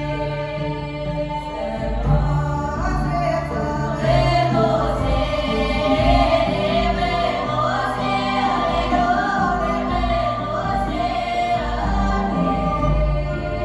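A choir singing a song with musical accompaniment, several voices carrying a wavering melody over sustained low notes.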